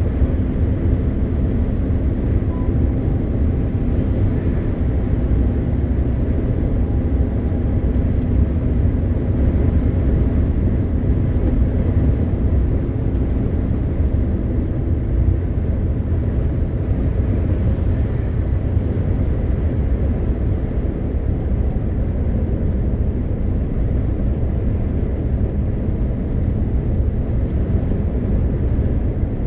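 MAN TGX 520 truck's 12.4-litre straight-six diesel running on the move: a steady low drone of engine and road noise, with faint steady tones that fade about halfway through.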